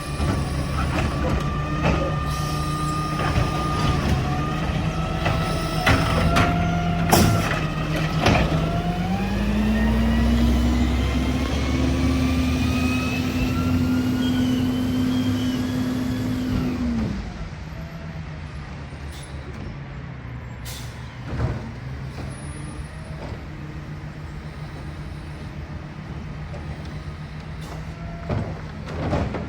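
A 12-year-old Mack LEU recycling garbage truck's diesel idling, with clanks and squeaks in the first eight seconds. About eight seconds in, the engine speeds up and holds there for about eight seconds with a rising whine as the packer compacts the load, then drops back to idle. A few sharp knocks come later.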